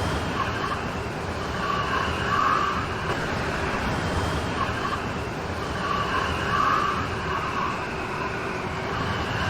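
Steady hiss of a rain storm, swelling a little louder every few seconds, with a brighter, higher-pitched wash that comes and goes with each swell.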